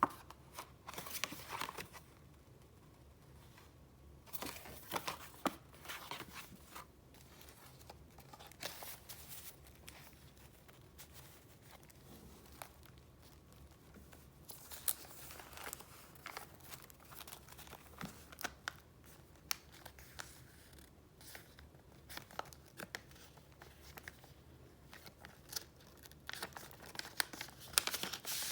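Paper being handled and flipped through: irregular rustling and crinkling with small taps, quieter stretches in between and a busier patch of rustling near the end.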